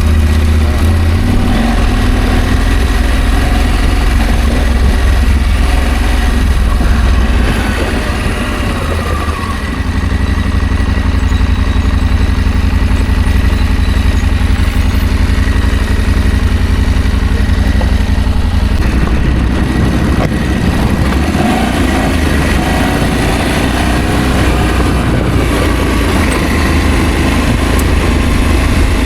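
Adventure motorcycle engine running steadily at low revs, its note shifting about two-thirds of the way through.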